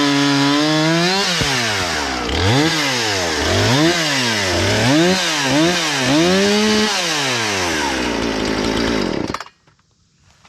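Husqvarna 460 Rancher two-stroke chainsaw running after a repair: it holds a steady speed, then revs up and down about five times, then holds high. About nine seconds in it cuts off suddenly.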